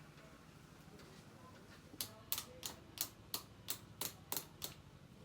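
Sharp, evenly spaced taps, about three a second, starting about two seconds in.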